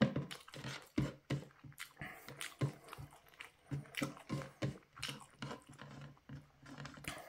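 Close-miked chewing and wet mouth smacks of someone eating grilled chicken and rice by hand: irregular clicks and smacks, several a second. A low steady hum runs under the second half.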